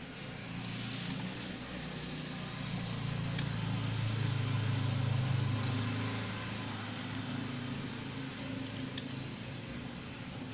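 A low rumble swells through the middle and fades again, like a passing vehicle. A few sharp clicks sound over it, from scissors cutting paper.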